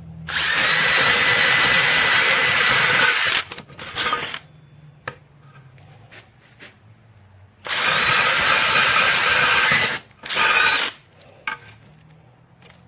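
DEWALT 20V MAX cordless brushless hammer drill running in two long bursts of about three seconds each. Each long burst is followed by a short one. A steady whine sits over the noise.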